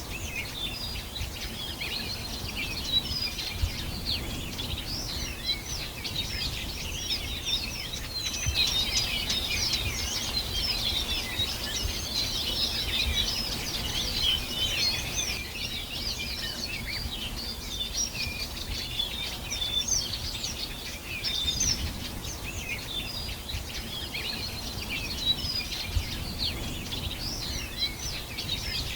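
A dense chorus of many small birds chirping and singing at once: quick high chirps and short trills overlapping without a break, over a low steady rumble.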